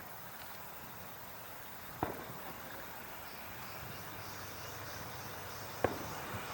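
Two distant firework bursts banging, about four seconds apart, the second the louder, over insects chirping in a steady pulsing rhythm.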